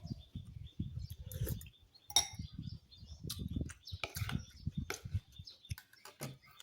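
Close-up eating sounds: irregular chewing, with several sharp clinks of cutlery against a dish.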